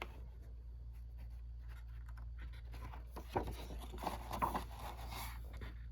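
Paper rustling as the pages of a picture book are handled and turned, mostly in the second half, over a low steady hum.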